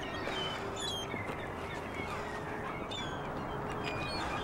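Short, high bird calls scattered over a steady outdoor background noise.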